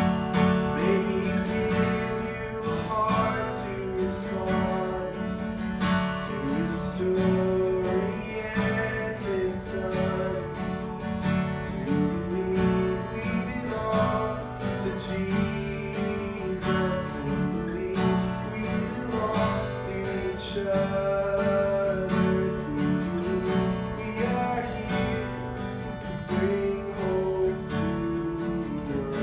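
Acoustic guitar strummed steadily, with a voice singing a slow, wavering melody over the chords.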